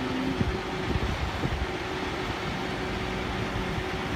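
Tow truck's engine running steadily with a low rumble.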